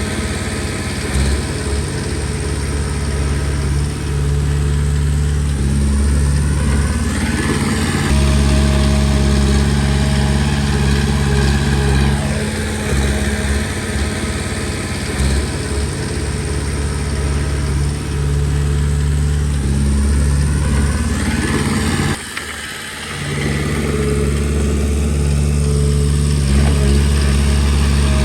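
Komatsu D20P bulldozer's diesel engine running and working, its pitch rising and falling with load, with a brief drop about three-quarters of the way through.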